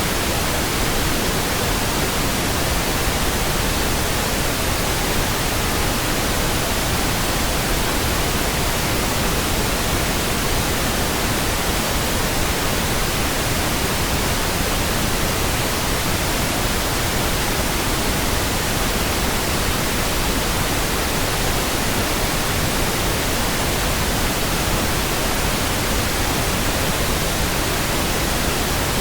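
Steady pink noise: an even, unchanging hiss spread across the whole range of pitch, with no tones or breaks.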